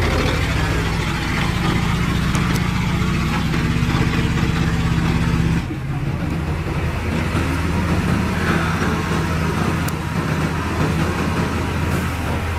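Heavy diesel engines of earthmoving machinery running steadily under load. About halfway through, the engine note changes abruptly to a different, lower-pitched pattern.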